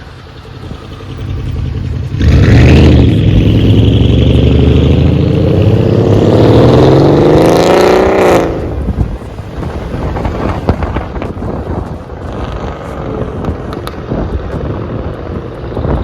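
Twin-turbo Mercedes with a straight-piped exhaust (no cats, no resonators) accelerating hard. The engine note comes in suddenly and rises steadily in pitch for about six seconds, then drops away as the driver lets off, leaving lower running with scattered short cracks.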